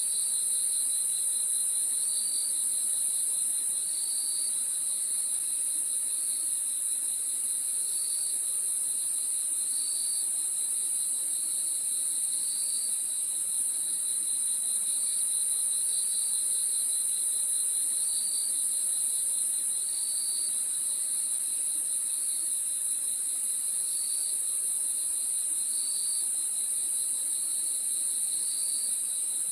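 Night-time chorus of crickets: a steady high-pitched trilling, with another insect chirping in short pulses about every two seconds over it.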